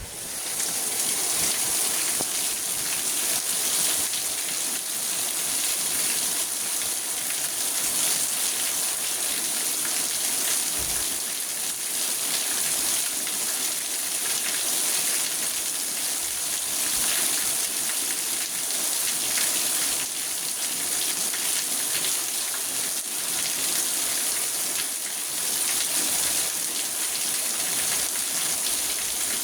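Steady rain falling on a car, heard from inside the cabin as an even hiss of drops on the roof and glass. It swells up quickly at the start, then holds steady.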